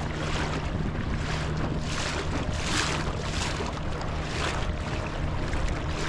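Small outboard motor on a dinghy running at a steady speed, a low even hum under the hiss of wind on the microphone and water rushing past the hull, which swells for a couple of seconds in the middle.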